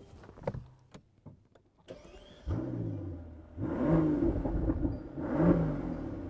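Mercedes-AMG S65 Coupe's twin-turbo V12 being started and revved through its AMG performance exhaust. After a few clicks and a brief rising starter whine, the engine catches about two and a half seconds in. It is then blipped twice, revving up and falling back each time.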